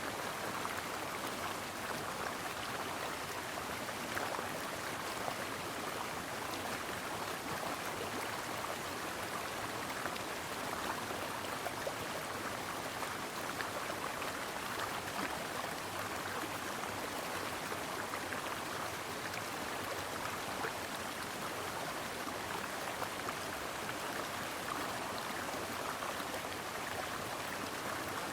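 Small mountain stream flowing and babbling over rocks, a steady rushing wash of water with fine splashing.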